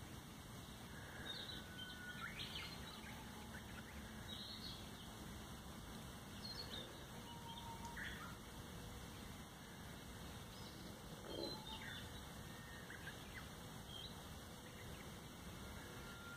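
Wild birds calling: scattered short chirps and whistles at irregular intervals, faint, over a steady low background rumble.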